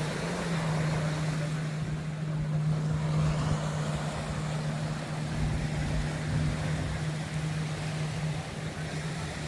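An engine running with a steady low hum that weakens near the end, over outdoor background noise.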